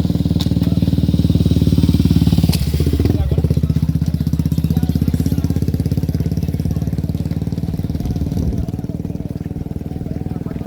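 Engine running steadily close by at a constant speed, a fast even pulsing low sound, with a brief sharp click about two and a half seconds in.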